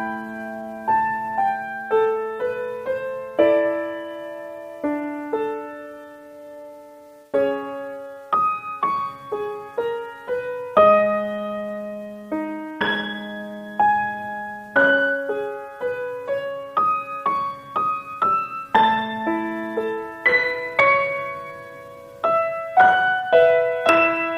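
Solo piano music: a slow melody over chords, each note struck and left to fade, with a brief lull about six seconds in.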